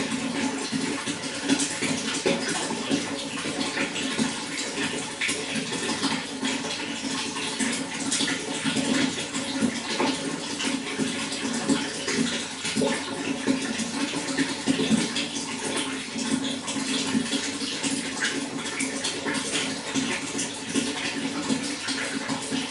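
Running water splashing and gurgling steadily, with many small splashes throughout.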